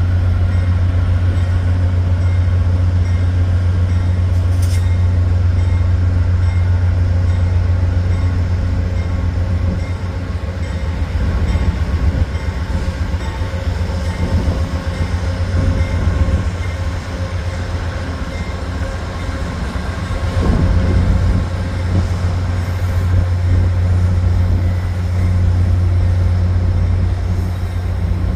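Amtrak Downeaster train's diesel locomotive running with a steady low engine drone as the train departs.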